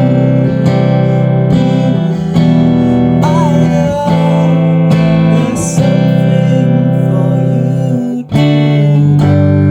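Schecter Custom Shop Telecaster-style electric guitar played through an Orange AD30 valve amp. Chords are played and left to ring, changing every second or two, with a short break about eight seconds in.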